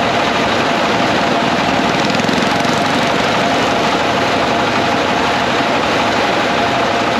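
A small engine running steadily at a constant speed, loud and even, cutting off abruptly near the end.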